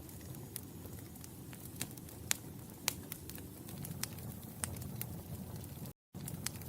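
Fire in a fireplace crackling: a low steady rumble of flames with scattered sharp pops, the two loudest a couple of seconds in. The sound cuts out completely for a split second near the end.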